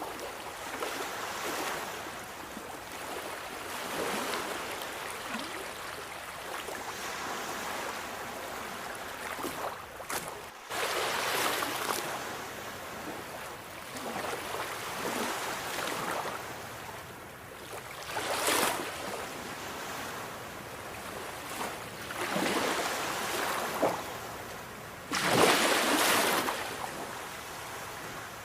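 Sea waves washing onto the shore: a steady rush of surf that swells into louder surges every few seconds, the strongest near the end.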